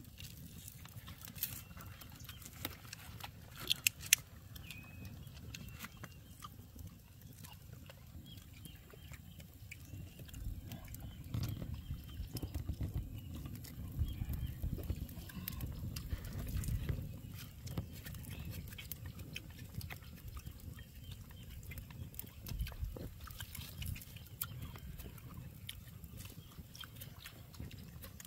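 Chewing and mouth sounds of people eating meat, over the scattered crackle and snap of a small wood fire, with a low rumble that swells for several seconds in the middle.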